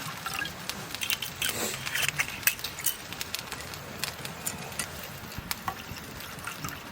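Wood campfire crackling, with many irregular sharp pops, busiest in the first half.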